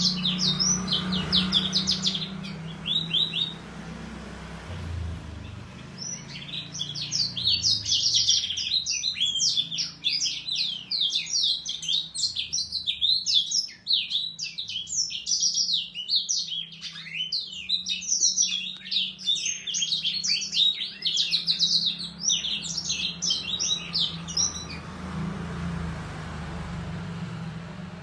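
A young canary and a young blackthroat (black-throated canary) singing against each other: fast, high twittering trills in long runs, with a break of a couple of seconds near the start and another near the end. A steady low hum lies under the song.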